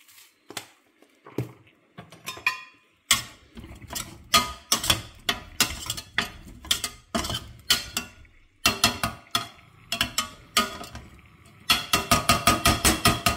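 Kitchen utensils knocking and clinking against cookware: scattered taps at first, growing busier, then a fast, even run of about six taps a second near the end.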